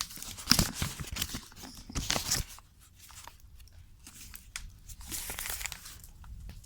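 Paper being handled, crumpled and torn, in dense crackly bursts for the first two seconds or so, then scattered quieter rustles.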